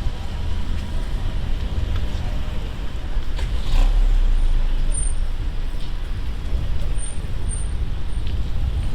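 Street traffic heard from a moving bicycle, over a steady deep wind rumble on the microphone. A vehicle swells louder with a hiss about three and a half seconds in, and a few short high squeaks come later.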